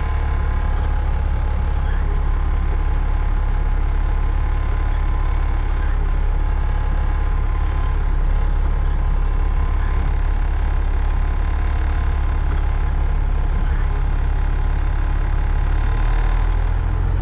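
Caterpillar 3406E inline-six diesel in a Freightliner FLD120, heard from inside the cab, running steadily at low revs. Its note shifts near the end.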